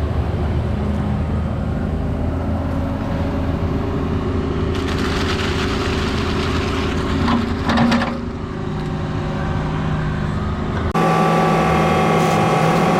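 Diesel engine of heavy equipment running steadily, with a short clatter partway through. The sound changes abruptly to a different steady engine sound near the end.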